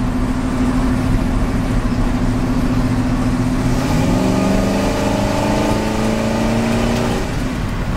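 1955 Chevrolet pickup truck driving down the road, its engine and road noise heard. About four seconds in, the engine note rises into a stronger, layered hum as it speeds up, then drops back near the end.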